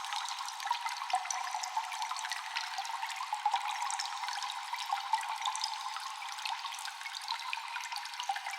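Cave ambience of water dripping and trickling: many small drops falling irregularly over a steady watery hiss, echoing in the cave. It sounds thin, with nothing deep in it.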